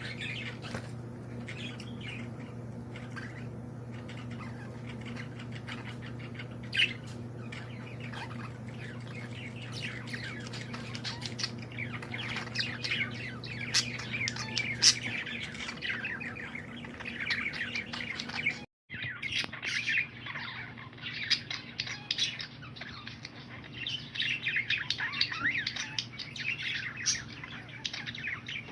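A group of small birds chirping and chattering busily, many short overlapping calls, with a steady low hum underneath that stops about halfway through. The sound drops out briefly about two-thirds of the way in.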